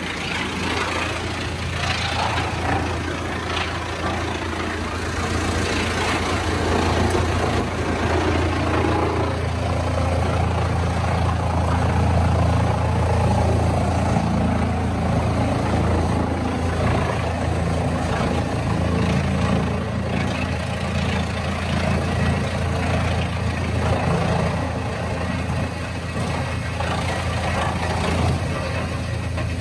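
A heavy engine running steadily with a strong low hum.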